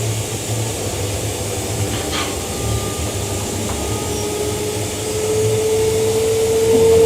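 Queensland Rail electric multiple unit train running, heard from on board: a steady rumble with uneven low throbbing, and a brief knock about two seconds in. From about four seconds in, an electric whine rises slowly in pitch and grows louder.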